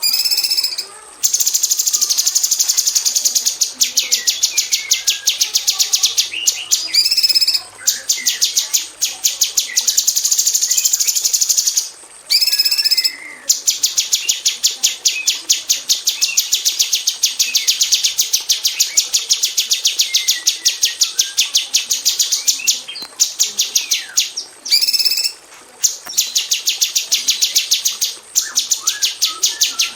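Female orange-bellied leafbird calling: long runs of rapid, sharp repeated notes, the dense 'shots' bird keepers prize, broken by brief pauses and a few clear whistled phrases.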